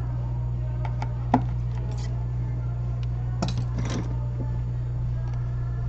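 Small metal tools and screws clicking and scraping against the metal and glass parts of an opened iPad Air while it is being unscrewed. There is one sharp click about a second and a half in and brief scraping near the middle, over a steady low hum.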